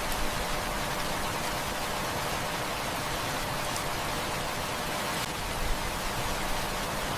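Heavy rain falling in a steady, even hiss, with a few faint crackles from a wood fire.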